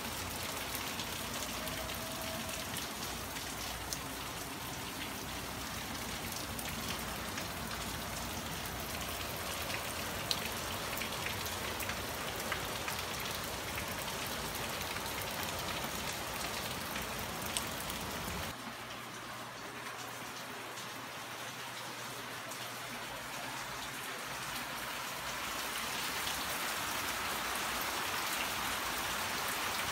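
Steady rain falling on roofs and foliage, with a few sharp drips ticking close by. The low rumble drops away about two-thirds through, and the rain swells louder near the end.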